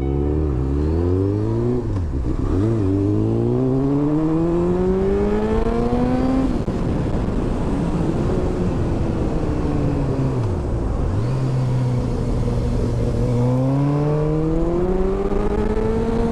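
Honda Hornet 600's inline-four engine heard from the rider's seat as the motorcycle accelerates: the engine note climbs steadily in pitch, drops at a gear change about six and a half seconds in, and runs steadily. It dips briefly near eleven seconds, then climbs again near the end.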